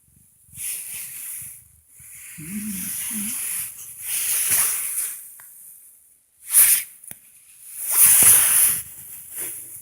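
Cats hissing: several separate sharp, breathy hisses, with a short low growl about two and a half seconds in.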